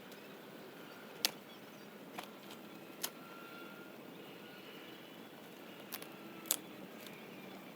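A few sharp snaps and cracks of dry wood, about six in all, the loudest about a second in and another a little after six seconds, over a faint steady outdoor background.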